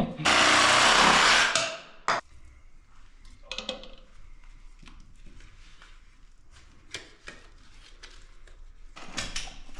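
A loud burst of even, hiss-like noise lasting about a second and a half, then scattered light knocks and clinks of tools being handled on a job site.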